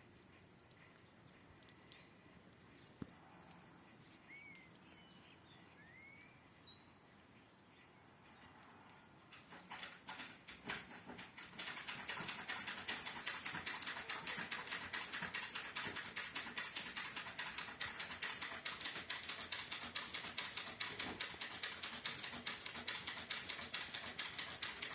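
Rain beginning: a few bird chirps over quiet, then from about ten seconds in raindrops patter on a hard surface, quickly thickening into a dense, steady run of drips.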